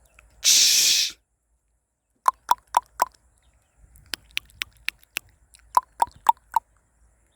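Birds giving short, sharp clicking calls, mostly in runs of four at about four a second. A brief rushing hiss comes about half a second in.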